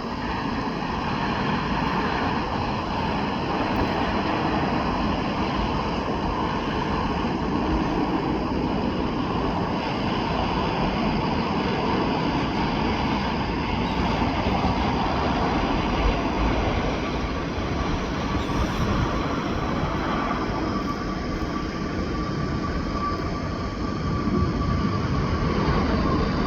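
Jet airliner engines running: a steady rushing noise with a faint high whine, growing a little louder near the end.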